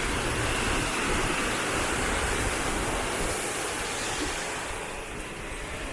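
Steady rushing of river water, easing slightly near the end.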